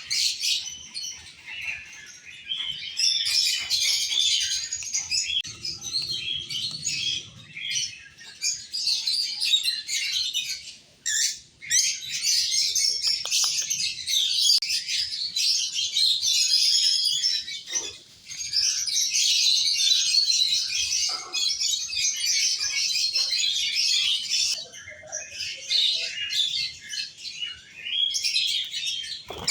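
Peach-faced lovebirds chattering: a dense, almost unbroken run of rapid, high-pitched chirps, with short pauses about 11 and 18 seconds in.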